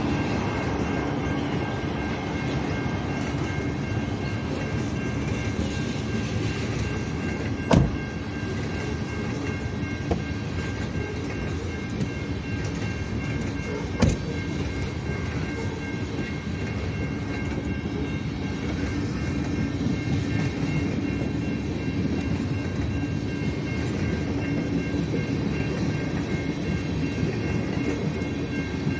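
CN freight train rolling past: a steady rumble of wheels on rail with a few faint held tones, broken by two sharp knocks, the first about 8 seconds in and the second about 14 seconds in.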